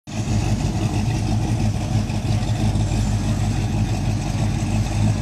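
Car engine idling steadily with a low, even pulse.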